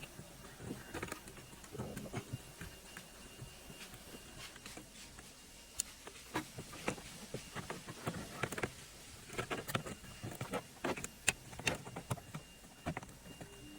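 Irregular light clicks and taps, a few early on and many close together in the second half, the kind made by handling small parts and tools during repair work.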